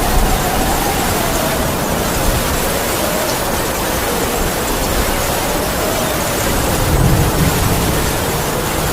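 Heavy rain falling steadily, with wind howling in a thin wavering tone that drifts slowly up and down. A low gust swells briefly about seven seconds in.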